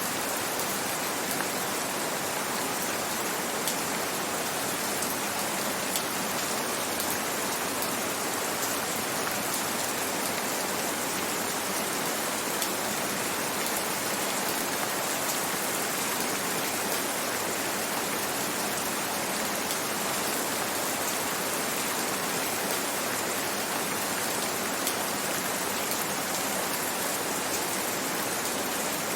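Gentle rain falling steadily: an even hiss with scattered faint drop ticks.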